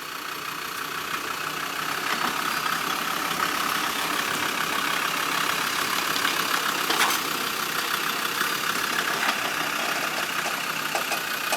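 Old Land Rover's engine running at low revs as the vehicle is manoeuvred slowly through a tight turn, getting a little louder over the first couple of seconds, with a couple of faint clicks in the second half.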